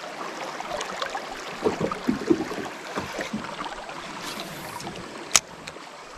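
Creek water splashing and gurgling in irregular small splashes, with one sharp click about five seconds in.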